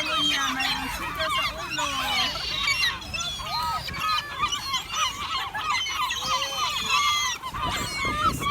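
A flock of gulls calling: many short, overlapping squawks and cries.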